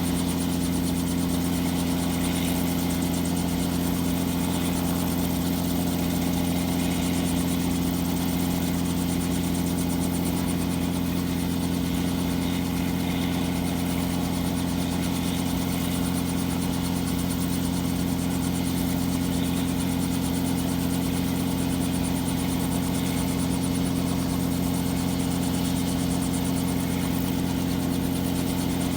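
Robinson helicopter running steadily, a constant engine drone with no change in pitch or level.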